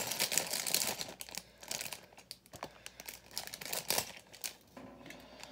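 A plastic LEGO parts bag crinkling as it is handled and opened: dense crackling for the first two seconds, then scattered crackles and a few sharp clicks.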